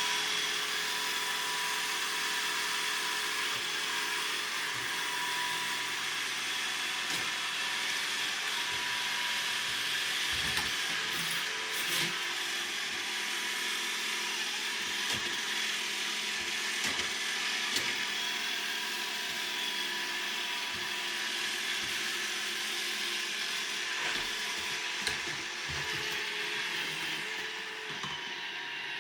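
Robot vacuum cleaner running, a steady motor whir and brush hiss, with a few light knocks.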